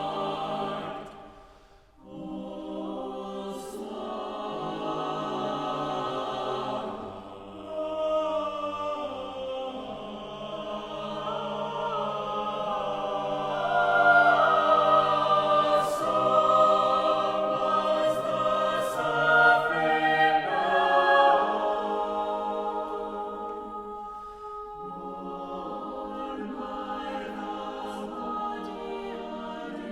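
Unaccompanied mixed choir singing sustained, overlapping chords. The voices break off briefly about two seconds in, then build to a loud swell in the middle and fall back to softer singing near the end.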